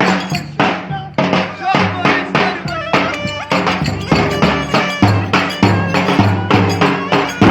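Live Turkish folk dance music from a wedding band: a steady, driving drum beat with a pitched melody line over it.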